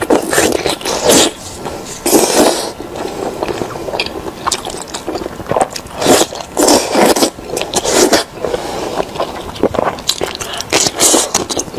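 Close-miked eating sounds: beef tendon being bitten and chewed, in irregular loud bursts with short pauses between.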